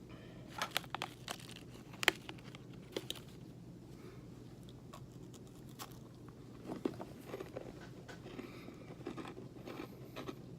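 Crunchy oat granola bar being bitten and chewed: a run of sharp cracks in the first three seconds, then softer crunching from about six seconds in.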